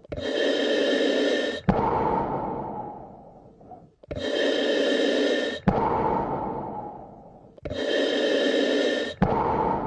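Slow, deep human breathing, close and loud, in a steady rhythm of about one full breath every four seconds. Each cycle is a rush of air lasting about a second and a half that stops abruptly, then a longer breath that fades away, with a small click where each part begins.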